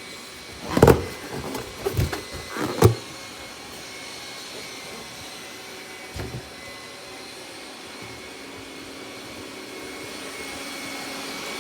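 Robot vacuum running with a steady whir and a thin high whine. Several sharp knocks come about one to three seconds in, and another near six seconds.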